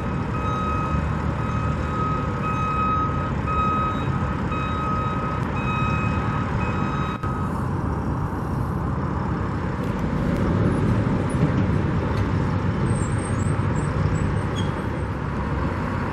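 A construction vehicle's backup alarm beeping in a regular series that stops about seven seconds in, over a steady rumble of traffic and engines.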